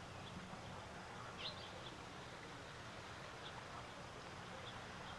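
A few faint, short bird chirps over a steady outdoor hiss, the clearest about a second and a half in and smaller ones later.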